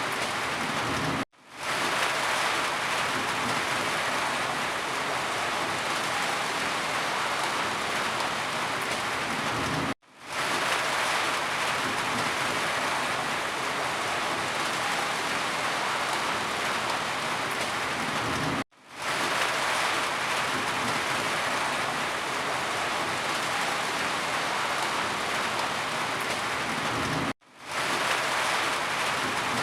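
Steady, heavy rainfall hissing on surfaces. About every nine seconds it cuts out suddenly for a moment and then fades back in.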